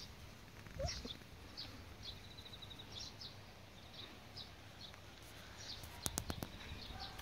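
Faint outdoor songbirds chirping, with short high calls every half second or so and a quick trill about two and a half seconds in. A few sharp clicks come a little after six seconds in.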